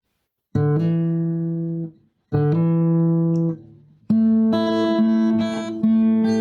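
Guitar music: a chord struck about half a second in and another about two seconds later, each stopped after about a second and a half, then a run of repeated strummed chords from about four seconds in.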